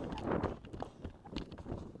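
Quick, irregular footsteps of a shooter moving between positions on an IPSC handgun stage, with small knocks and clicks.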